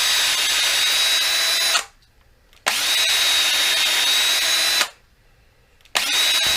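Electric drill boring a small pilot bit through a wooden walking stick: a steady high whine in three runs, stopping about two seconds in and again about five seconds in, each restart spinning up quickly.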